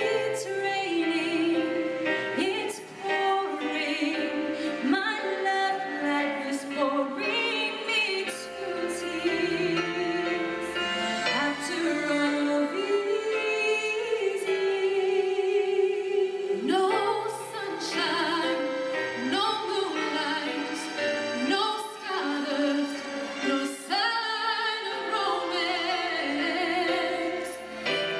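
A choir singing a song over instrumental backing with a beat and a bass line.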